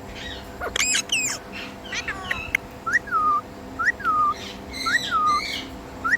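Indian ringneck parrot calling: a few sharp, steeply gliding chirps in the first two seconds, then the same call four times about a second apart, each rising quickly and then sliding down in pitch.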